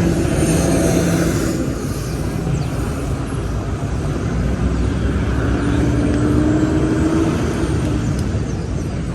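City street traffic: vehicle engines running and passing in a steady low rumble. One engine's hum rises slightly about six seconds in.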